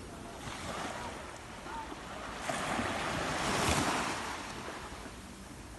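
Ocean surf: a wave breaks and washes up the beach, swelling to its loudest about three and a half seconds in, then fading.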